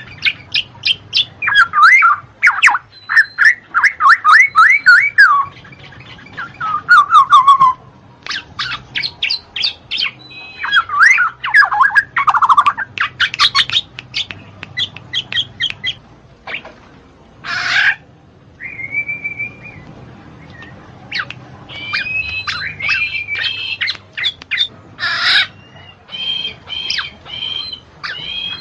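Black-naped oriole calling in quick runs of sharp notes and short chattering phrases, broken by a few brief harsh squawks.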